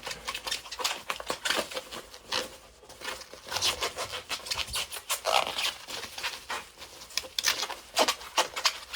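Bubble wrap being handled and pulled off an object, with squeaky plastic crinkling in quick, irregular crackles.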